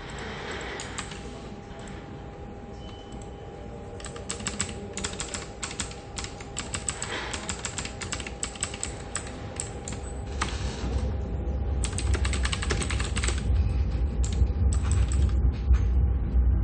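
Typing on a computer keyboard: quick runs of key clicks in bursts, thinning out near the end, over a faint steady office hum. A low rumble builds up in the second half and becomes the loudest part of the sound.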